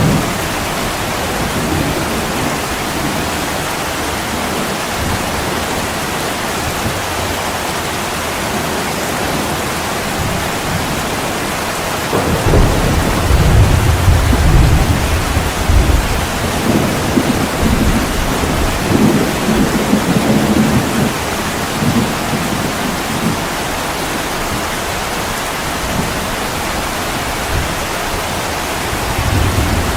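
Steady heavy rain on a window, with a long low rumble of thunder starting about twelve seconds in and rolling on for several seconds, and another rumble near the end.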